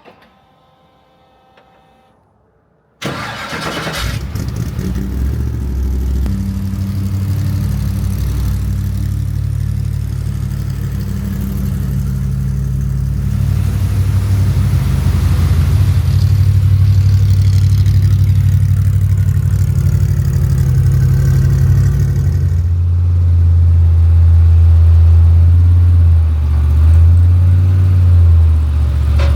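Trophy truck engine starting: it fires abruptly about three seconds in and runs on steadily, then grows louder and deeper about three-quarters of the way through.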